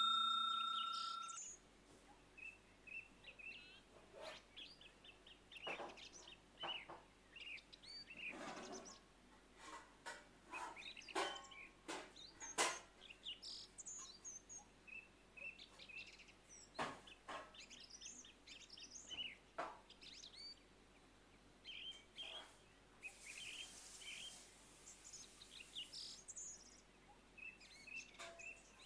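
Faint chirping of small birds, short calls scattered throughout. In the first second or so, the tail of a ringing ding fades away.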